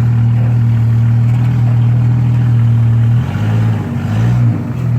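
Jeep 4.0L inline-six running loud through a straight-piped exhaust with no muffler, holding a steady low-speed note as it crawls onto an obstacle; near the end the note wavers and dips briefly as the engine takes the load of the climb.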